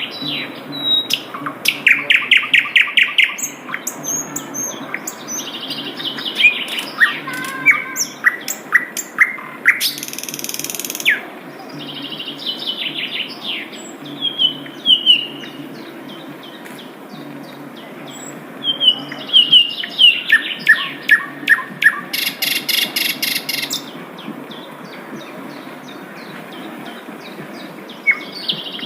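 Sikatan londo flycatcher singing: bursts of rapid, sharp repeated chirps and short trills, with pauses between phrases. Two brief hissing bursts come about ten seconds in and again about twenty-two seconds in.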